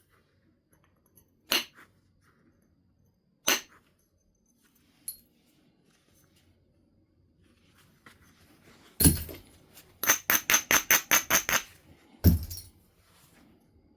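Flint nodule being knapped: single sharp strikes on the stone a couple of seconds apart, then a heavier blow followed by a fast run of about a dozen light ticks, about seven a second, and another heavy strike.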